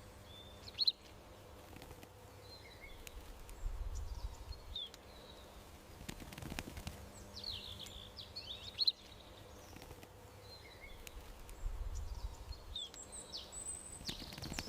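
Small garden birds chirping and twittering in short, quick high calls over a steady faint background, with a soft low rumble twice.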